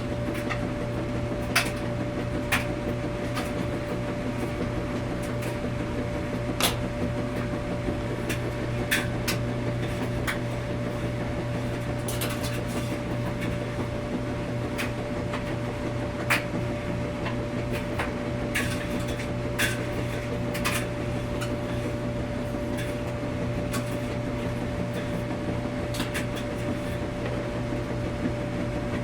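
Washing machine running in a laundromat: a steady mechanical hum with a constant tone, broken by irregular sharp clicks and knocks a few times every couple of seconds.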